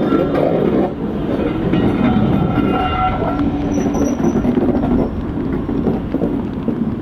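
A train running past, with continuous wheel and rail noise and a faint steady tone about two to three seconds in.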